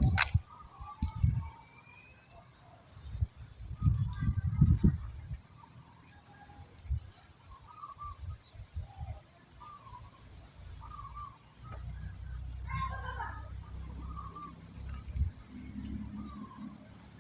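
Birds chirping, with high trills repeated several times, over occasional low thumps.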